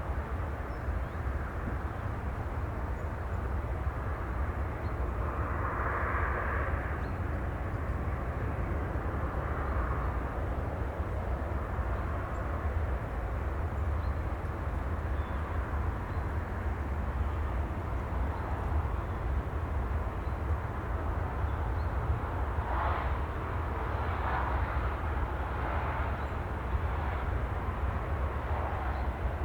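Steady sea ambience: a continuous low rumble and hiss of water, with a few slightly louder washes about six seconds in and again near the end.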